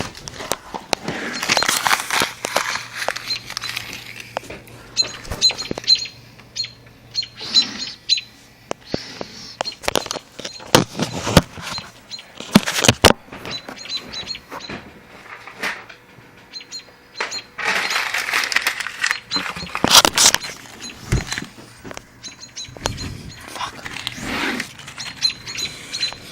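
Faint small birds chirping outside in short repeated high notes, under rustling and several sharp knocks and clicks from close handling.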